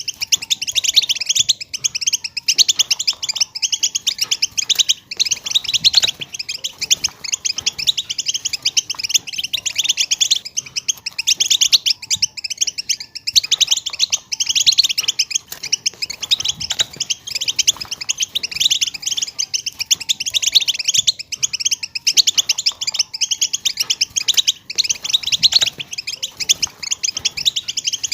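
A flock of female European goldfinches calling together: a dense, continuous stream of rapid, high twittering chirps with no pause.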